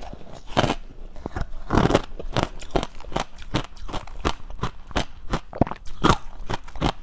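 Close-up crunching and chewing of dry, powdery freezer-frost ice: quick, irregular crunches, several a second.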